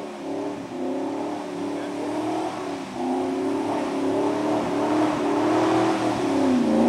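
First-generation Range Rover's engine working through deep mud, its note rising and falling with the throttle. It dips briefly about three seconds in and falls in pitch near the end.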